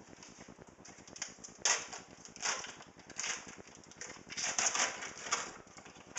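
Packages of cream cheese being unwrapped by hand, the wrappers crinkling and rustling in irregular bursts, busiest about a second before the end.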